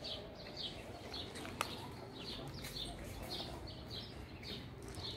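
A bird calling in a steady series of short, high chirps, about two or three a second, with a single sharp click about a second and a half in.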